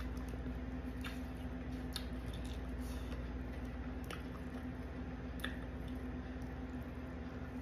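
Close-up mukbang eating sounds: a mouthful of shrimp and rice being chewed, with a few sharp clicks of a plastic fork in a foam takeout box, over a steady low hum.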